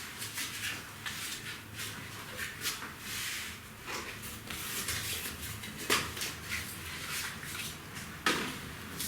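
Cardboard and firewood fire crackling in a fireplace firebox, with irregular small pops and a few sharper cracks about four, six and eight seconds in.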